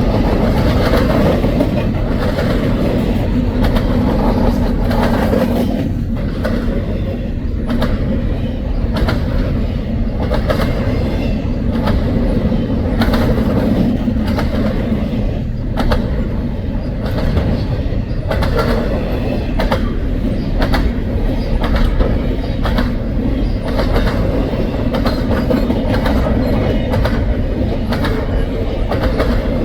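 Double-stack intermodal freight train rolling past: a steady, loud rumble of steel wheels on rail, broken by repeated sharp clicks as the wheelsets cross rail joints.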